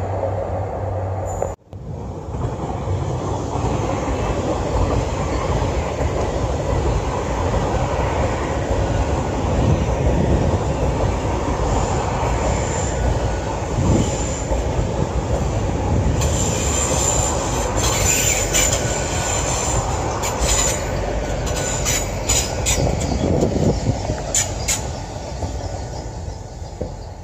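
Passenger train running past close by: a steady rumble of wheels on rail, with high-pitched wheel squeals and rapid ticks and clicks through the second half. A brief low diesel engine hum cuts off abruptly about a second and a half in.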